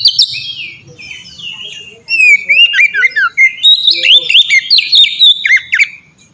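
Oriental magpie-robin (kacer) singing a fast, varied song of loud whistles and quick rising and falling sweeping notes. The song eases off for a second or so near the start, then comes back loud.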